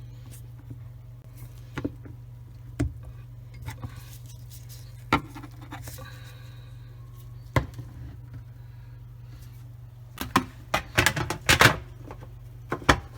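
Plastic parts of a Bosch dishwasher's sump (drain pump cover and filter) clicking and knocking as they are fitted back into place: scattered single knocks, then a quick cluster of them about ten to twelve seconds in, over a steady low hum.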